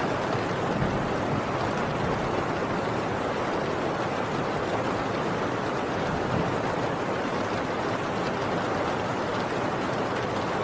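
Heavy rain pouring steadily on a tin roof, a dense, even hiss of drops on metal.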